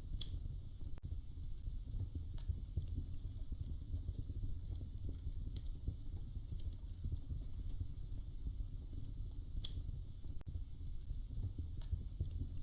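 Wood fire burning in a fireplace: a steady low rumble of flames with sharp crackles and pops every two seconds or so.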